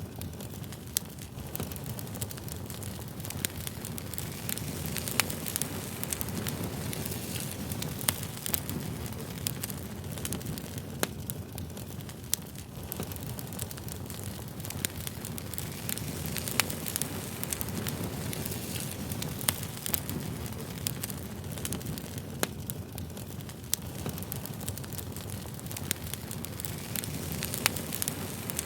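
Wood campfire crackling: a steady low rush of flame with frequent sharp, irregular pops and snaps.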